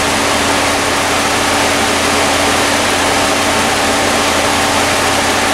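Chevy Impala's V6 engine idling under the open hood, a steady hum with an even rush of air over it.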